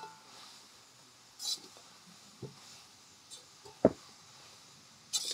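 Ladle stirring cooked mutton pieces in a metal kadai: soft scrapes and a few clicks, with one sharp knock of the ladle just before four seconds in, over a faint steady hiss.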